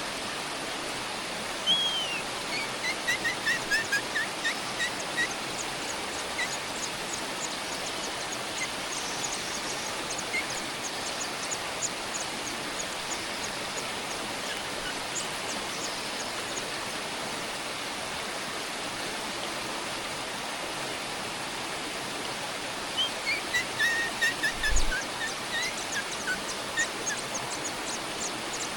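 Two runs of rapid, short bird chirps, each falling in pitch, the first a couple of seconds in and the second near the end. Faint high ticking chirps come in between, over a steady rushing background noise.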